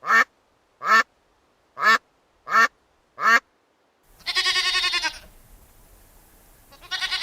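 A duck quacks five times in short, evenly spaced calls. Then a goat gives a long, quavering bleat, and a second bleat starts near the end.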